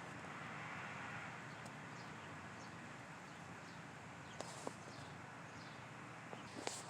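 Quiet outdoor background with faint, distant bird chirps, a string of short falling notes, and a few soft clicks near the end.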